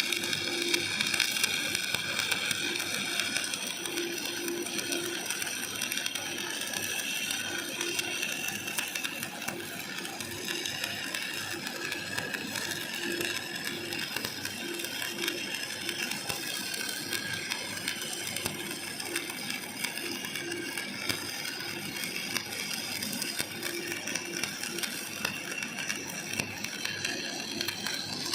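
Electric arc welding on a steel deck joint: the arc crackles and sputters steadily and evenly, without a break.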